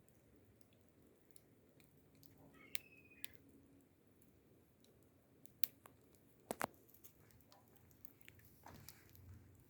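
Wood fire crackling quietly, with scattered sharp pops; the loudest is a close double pop a little past halfway.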